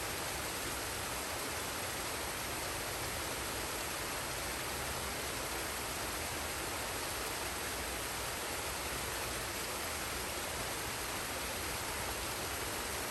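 Forest waterfall and stream: steady, even rush of falling and flowing water.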